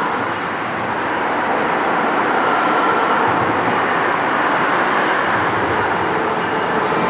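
Diesel freight train led by a CSX road slug approaching on the rails with a steady rumble.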